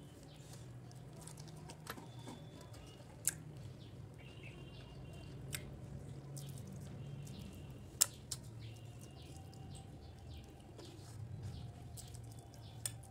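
Mouth noises of eating a cooked fish head by hand: wet chewing and sucking, with a few sharp clicks, the loudest about three and eight seconds in. Faint bird chirps in the background.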